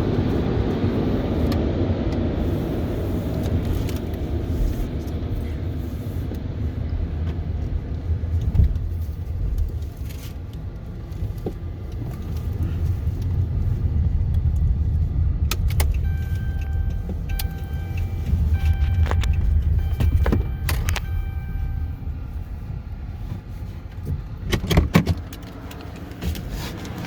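Automatic tunnel car wash heard from inside the car's cabin: a steady low rumble of the wash brushes and sprayers that eases off toward the end. A few short beeping tones sound in the middle, and several clicks and knocks come near the end.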